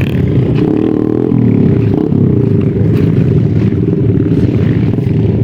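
Dirt bike engine running loud and close, its pitch shifting as the throttle changes.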